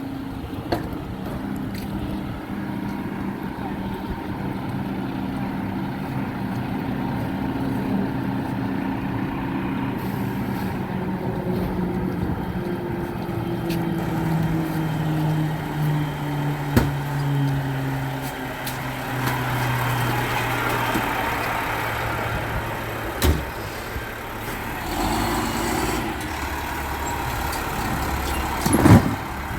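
Garbage truck engine running, its pitch dropping slowly through the middle as it throttles down. A hiss follows later, along with a few sharp knocks; the loudest knock comes near the end.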